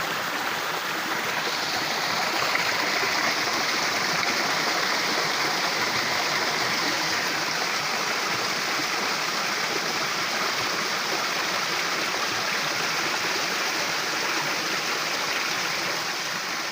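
Steady rush of water from a waterfall and its stream, an even, unbroken splashing hiss.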